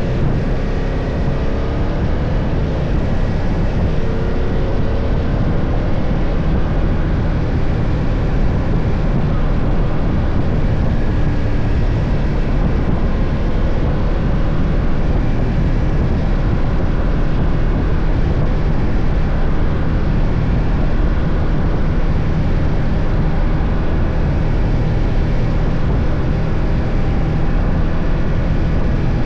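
BMW F 800 GS parallel-twin motorcycle engine running steadily while riding at speed, with a rush of wind noise over the microphone.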